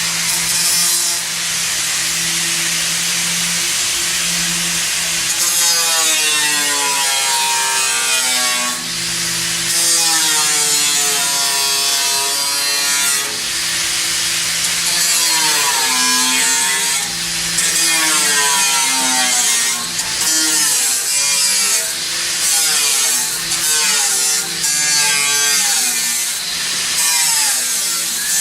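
Power saw cutting, a steady motor hum under a pitch that keeps rising and falling as the blade works through the material.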